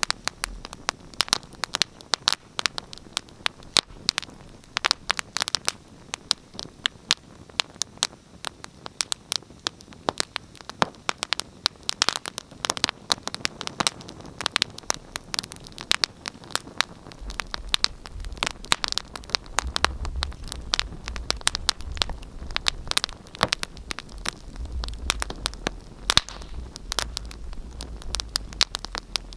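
Wood fire crackling: a dense run of sharp pops and snaps over a soft hiss. A low rumble joins a little past halfway.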